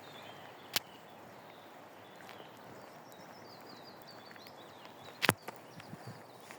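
Forest ambience with faint high bird chirps around the middle, broken by two sharp knocks, one about a second in and a louder one near the end.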